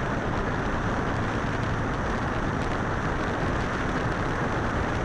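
A motorcycle riding along at a steady pace: a constant rush of wind on the microphone, with the engine's low drone beneath it.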